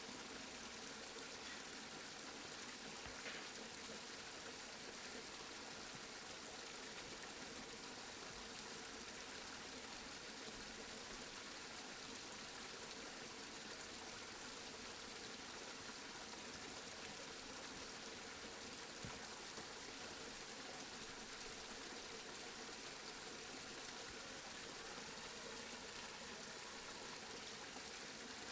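Steady rain falling: an even hiss that holds unchanged throughout, with a couple of faint ticks.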